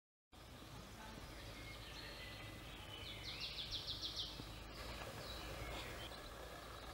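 Faint forest ambience with a small songbird singing: a quick trill of about eight repeated high notes lasting about a second near the middle, and a few short chirps around it. The sound starts abruptly from total silence just after the start.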